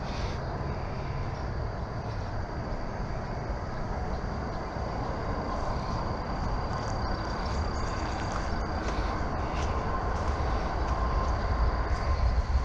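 Steady rumbling noise of a bicycle ride in the rain, tyres running on a wet trail with wind on the microphone, the low rumble growing stronger near the end.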